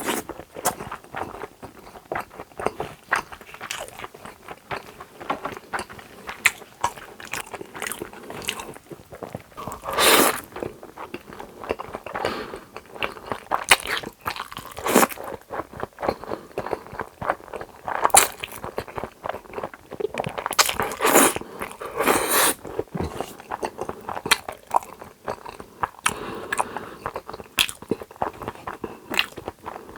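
Close-miked eating sounds: steady chewing with many small wet mouth clicks and smacks, and several louder, longer bites or mouthfuls scattered through.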